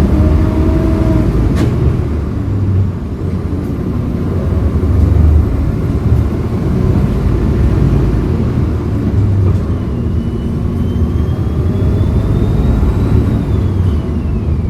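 A 2011 Hyundai Green City CNG city bus driving, its natural-gas engine running with a steady low drone whose pitch rises and falls with speed. There is a single sharp click about two seconds in.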